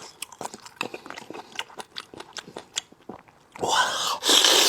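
Close-miked chewing with many small, quick clicks. Near the end comes a louder rushing noise lasting about a second.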